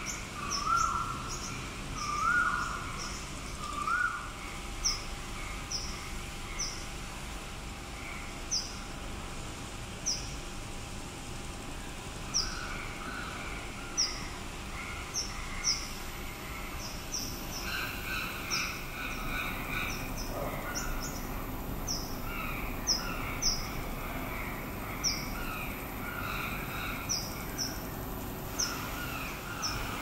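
Birds calling: short, sharp high chirps every second or so, with a few rising calls in the first four seconds and a busier, lower chattering in the second half.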